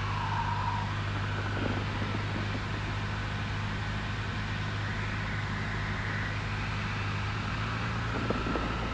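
Steady drone of a Cessna 172N's four-cylinder engine and propeller heard from inside the cabin, the pitch rising slightly near the end.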